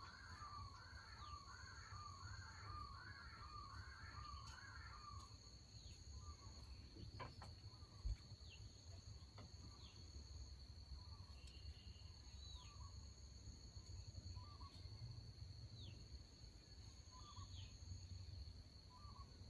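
Faint outdoor birdsong: for the first five seconds a bird repeats a quick rising-and-falling note about twice a second, then other birds give scattered short chirps and falling whistles. A steady, thin, high-pitched tone sounds underneath the whole time.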